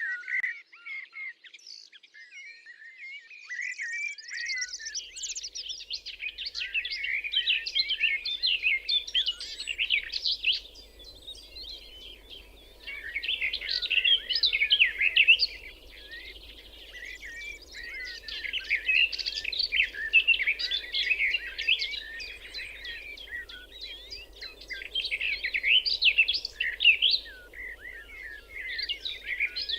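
Several songbirds singing together in a dense, overlapping chorus of quick chirps and trills that swells and eases in waves. A faint steady low hum sets in about four seconds in.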